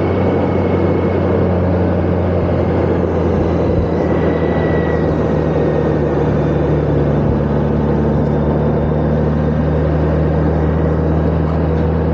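Motorcycle engine running steadily while riding, with wind and road noise rushing past.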